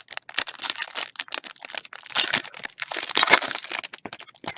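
Baseball trading cards and their packaging being handled: quick clicking and crinkling as cards are flipped and wrappers worked, busiest in the middle of the stretch.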